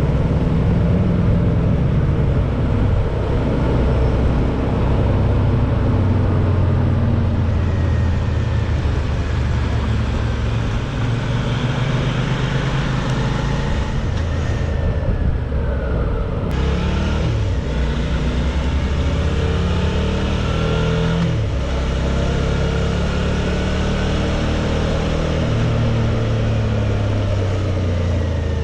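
Suzuki V-Strom 650's V-twin engine under way, its pitch rising and falling with speed and dropping sharply twice, over steady wind and road noise.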